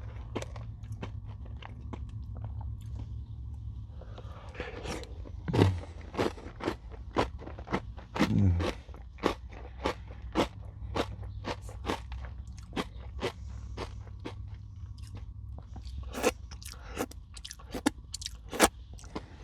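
Close-up biting and chewing of crunchy Nature Valley granola bars dipped in yogurt: a steady stream of sharp, crisp crunches, with two short low sounds falling in pitch about a third of the way in.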